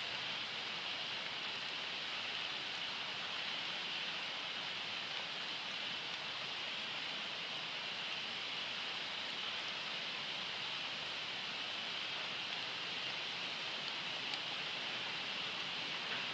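Steady hiss of heavy rain falling, even and unbroken, with no train sound in it.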